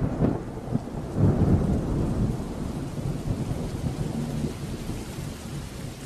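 Steady rainfall with low rolling thunder rumbling under it, strongest at the start and easing off.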